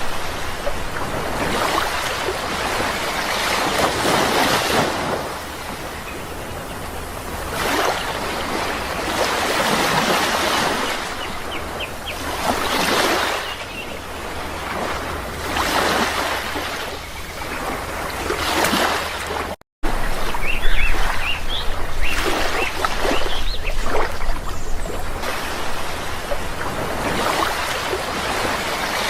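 Sea waves breaking and washing ashore, each swell rising and fading every few seconds, with a few faint bird chirps. The sound cuts out for a split second about two-thirds of the way in.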